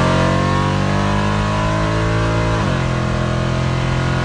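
Chevy S10's swapped 5.3-litre V8 running at raised revs, easing off slightly and then dropping to a lower steady speed about two and a half seconds in.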